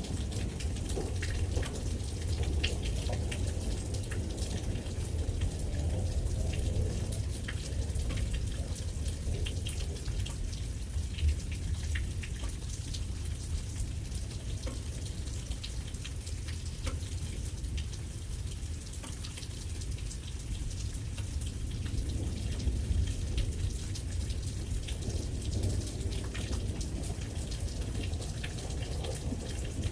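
Steady rain falling, with many individual drops ticking on a surface over a constant low rumble.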